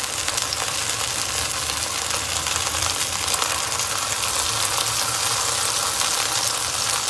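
Zucchini slices frying in a little hot oil in a frying pan: a steady sizzle full of fine crackles, with a steady low hum underneath.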